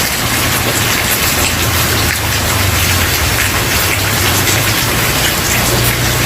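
Steady, even rain falling on a wooden porch, a dense hiss of drops with faint scattered patter and a low steady rumble underneath.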